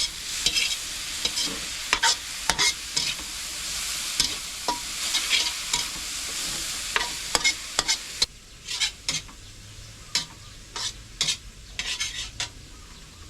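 Food frying in a pan with a steady sizzle, stirred with a spatula that scrapes and clicks against the pan many times. About eight seconds in, the sizzle drops off sharply, but the stirring strokes go on.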